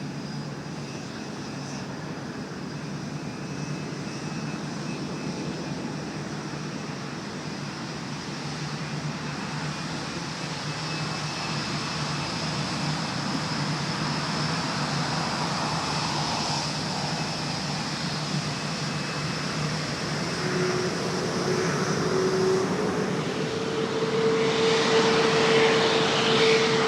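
Jet airliner's engines drawing near, a steady rush that grows louder throughout, with a steady engine tone coming in near the end.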